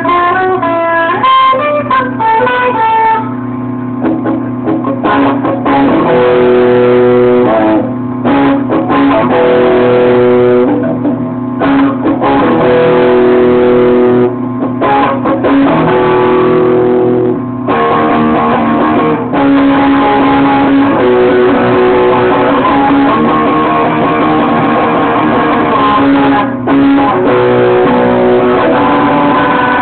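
Guitar music: a quick run of single plucked notes for about the first three seconds, then held chords and notes with short breaks between them.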